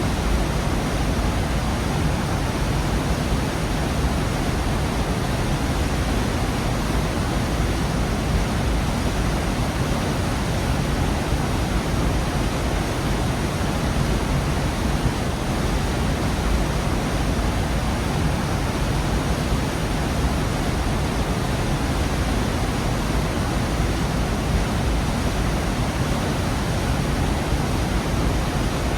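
Waterfall in a gorge: a steady, loud rush of falling water with a deep low rumble, unchanging throughout.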